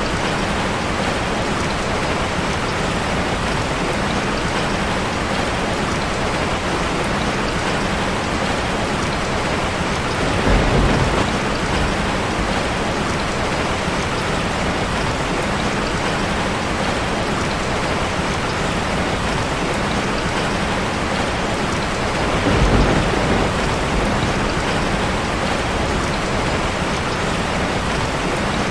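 Steady rain drumming on a metal roof, with two brief low rumbles of thunder swelling up, one about ten seconds in and another a little over twenty seconds in.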